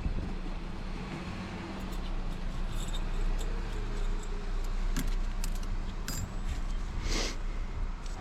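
Metal motorcycle clutch parts clinking and rattling as they are handled during an engine teardown, with scattered light clicks and a louder clink about seven seconds in, over a steady low hum.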